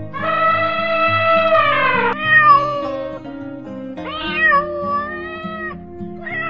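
A domestic cat meowing about four times, the first a long meow of about two seconds that falls in pitch at its end, the rest shorter with pitch that bends up and down. Background music plays underneath.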